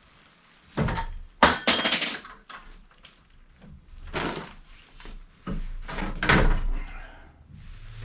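Knocks and thumps from PEX pipe being pushed and worked through holes in wooden wall studs, with a brief metallic clatter about one and a half seconds in.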